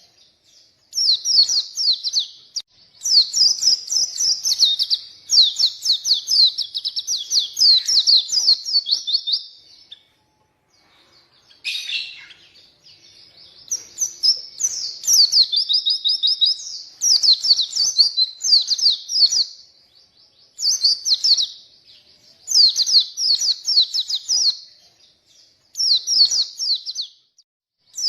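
White-eye (pleci) songbird singing in bursts of rapid, high-pitched warbled phrases, each a second or two long with short pauses between. There is a longer break about ten seconds in.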